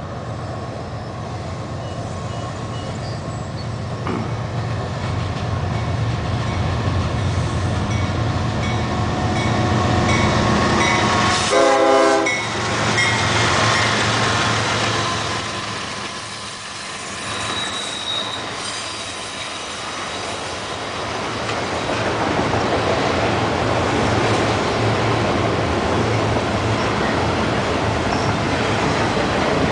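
Two GE ES44DC diesel locomotives approaching and passing, their engines growing louder, with a short horn blast about midway. A string of autorack freight cars then rolls by with steady wheel noise.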